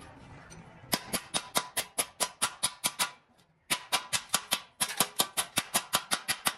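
Rapid hammering on metal: sharp strikes about five a second, each with a short ringing note. They come in two runs, with a brief pause about three seconds in.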